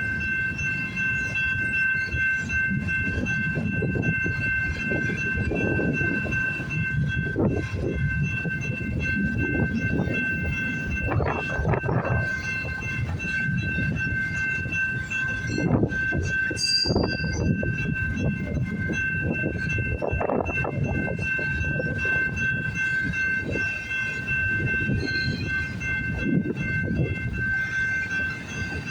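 Cars of a long CN freight train rolling past, a steady low noise broken by uneven wheel clatter, with a steady high-pitched tone over it.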